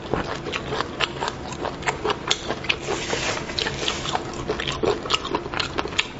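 Close-miked chewing and biting of braised beef bone marrow: a fast, irregular run of short wet clicks and mouth smacks.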